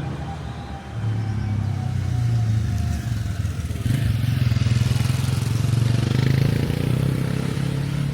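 A motor vehicle's engine running, with its sound swelling louder and fuller from about four seconds in to near the end.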